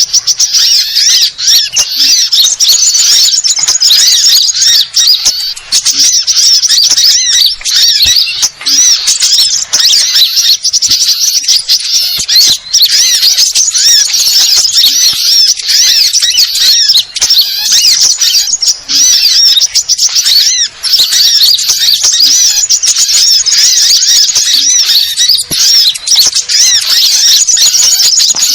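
A dense, unbroken chorus of quick, high-pitched chirps and twitters from many small birds calling at once, sunbirds among them, as in a mixed-bird lure recording.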